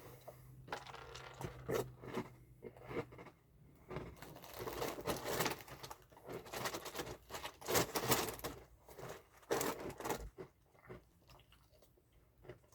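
A person chewing a mouthful of crunchy chocolate cereal puffs in milk, the crunching coming in irregular bursts that die away near the end.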